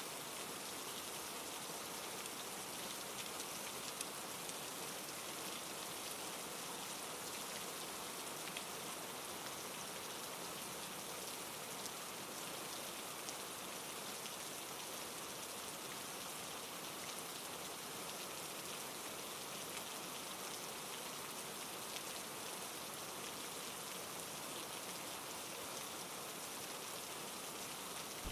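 Steady rain falling: an even, soft hiss with a few faint, scattered drop ticks.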